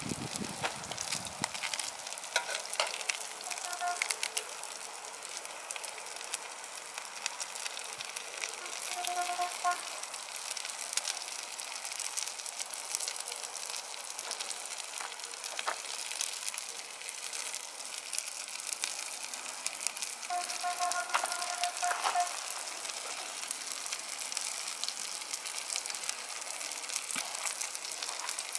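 Coated fish fillets and potato pieces sizzling in a steel frying pan over charcoal: a steady hiss with a constant light crackle.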